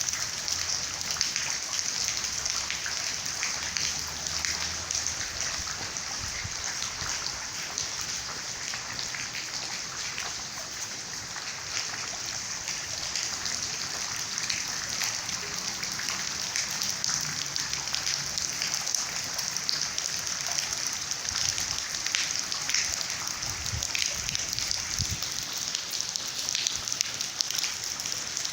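Steady rain falling: a dense, even hiss of drops with many small spatters.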